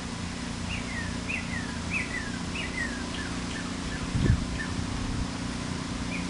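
Wild birds calling repeatedly, short notes sliding downward about every half second, with a single low thump about four seconds in.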